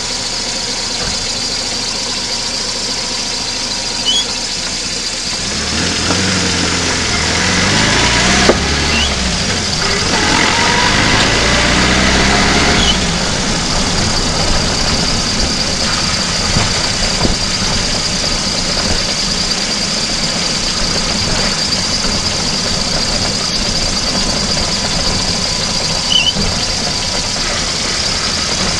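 VAZ-2109's four-cylinder petrol engine heard from inside the engine bay while the car is driven, running steadily. From about six seconds in, the engine note rises in pitch twice as the car accelerates, then settles back to a steady run.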